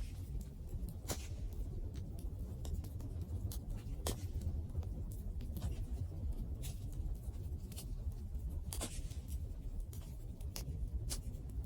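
Wood campfire burning: a steady low rumble of flames under irregular sharp crackles and pops from the wood, a few of them louder.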